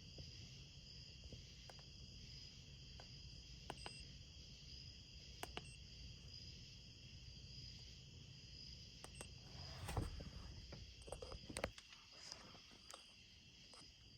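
Insects chirping steadily in the background, with a low hum, scattered sharp clicks, and a few louder knocks and taps from about ten seconds in.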